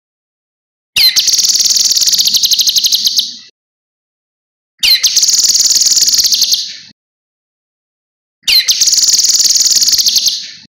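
Cucak kinoi singing: three bursts of fast, high trilling, each opening with a quick sliding note and lasting about two seconds, with short silent gaps between.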